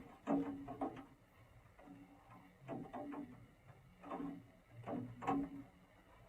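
Irregular series of short mechanical clicks and taps, coming in small clusters, some with a brief low ring.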